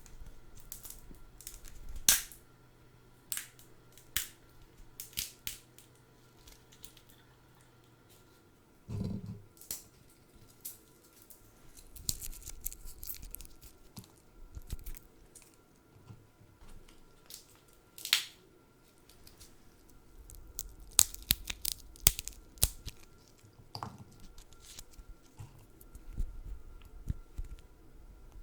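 Food being handled close to the microphone: irregular sharp crackles, clicks and tearing sounds, with a soft thump about nine seconds in.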